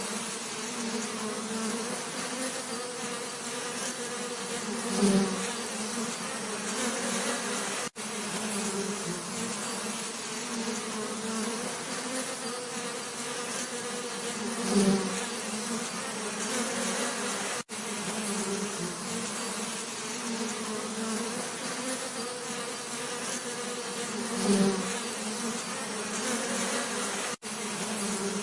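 Bees buzzing steadily, a low hum with a louder swell about every ten seconds as a bee comes close. There are brief gaps in the sound at similar spacing.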